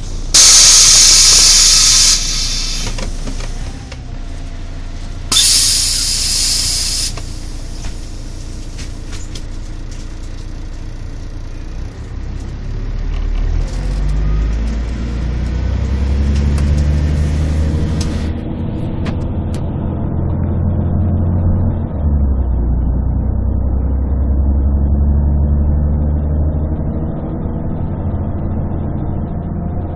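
Two loud hisses of compressed air from a city bus's pneumatics: one near the start lasting about two seconds, and another about five seconds in. After that the bus's Scania DSC11 diesel (260 hp) pulls away through its Voith D863.3 automatic gearbox. The engine note rises, with steps around 18 and 22 seconds. It is heard from inside the bus, with a bass-heavy, muffled tone from a partly covered microphone.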